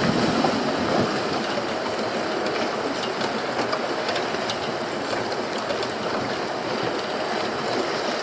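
Steady rushing noise of wind and sea water around a small open fishing boat.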